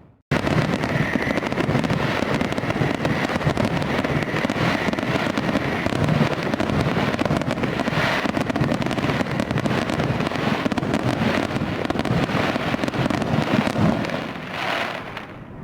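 Fireworks going off in a dense, continuous barrage of crackles and pops, starting suddenly just after the start and thinning out near the end.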